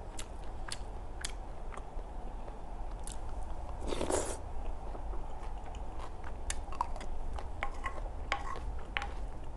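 Close-miked mouth sounds of chewing soft, chewy rice cakes in a creamy sauce, with scattered wet clicks. About four seconds in, a brief, louder slurp as a spoonful goes into the mouth.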